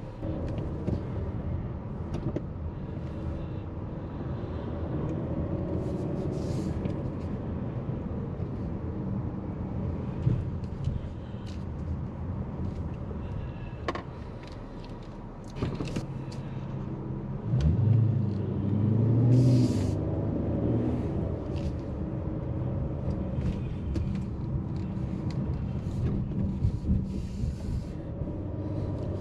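Car engine and road noise heard from inside the car in slow traffic, a steady low hum. About two-thirds of the way through the engine note swells and rises as the car pulls away and speeds up.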